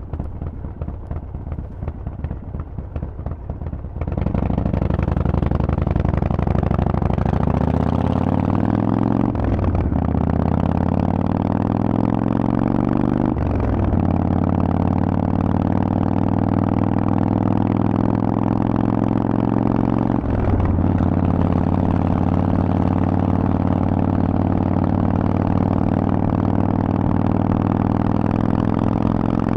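Harley-Davidson Forty-Eight's air-cooled 1200 cc V-twin through a Vance & Hines exhaust, ticking over at first, then opening up about four seconds in and revving up. Three brief breaks in the engine note mark upshifts, and the bike then runs steadily at speed.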